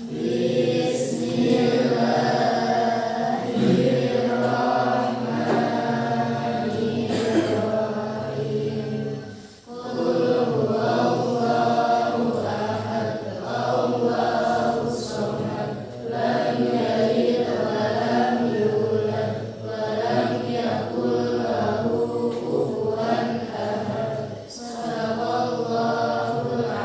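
A group of voices singing a song together, in sung phrases with a short break about nine and a half seconds in.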